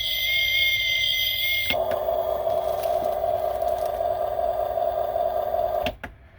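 Steady electronic humming tones: a high held tone for the first couple of seconds, then a lower buzzing hum that cuts off suddenly near the end.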